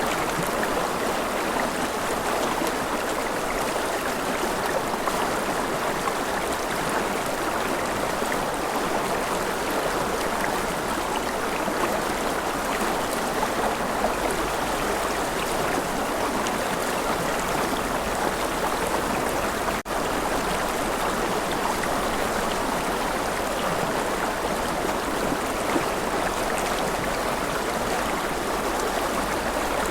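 A forest river flowing steadily over rocks, a continuous rushing and babbling of water. There is a momentary dropout about two-thirds of the way through.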